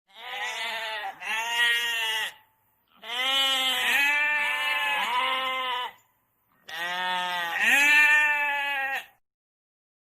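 Bleating livestock: a run of quavering bleats in three bursts, each two to three seconds long, with short silent gaps between them.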